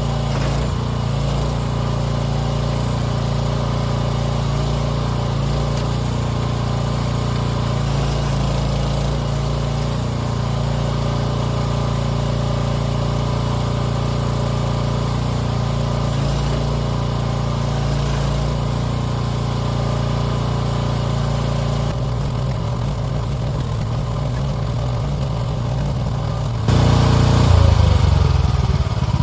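The 15-horsepower gasoline engine of a 1-ton mini excavator runs steadily while the machine works. A few seconds before the end it suddenly gets louder.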